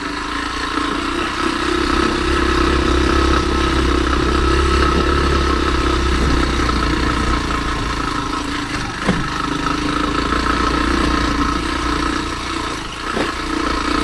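Kymco KTR 150 motorcycle's single-cylinder four-stroke engine running steadily while riding uphill, with two brief knocks, one about nine seconds in and one near the end.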